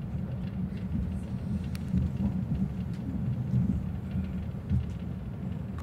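Steady low rumble of a Euromed train running, heard from inside the passenger car, with a few faint clicks.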